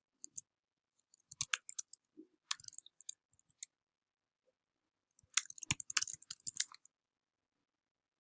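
Computer keyboard typing: two short runs of rapid key clicks, the second one denser.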